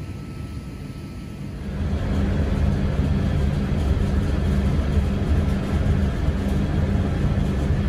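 A train running close by: a low, steady rumbling hum that grows louder about two seconds in and then holds steady.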